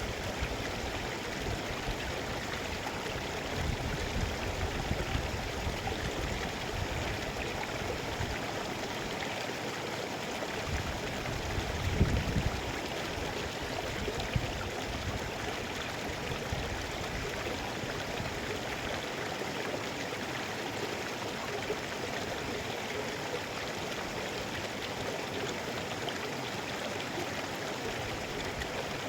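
Mountain river flowing steadily, a continuous rushing of water, with a low rumble swelling at times, strongest about twelve seconds in.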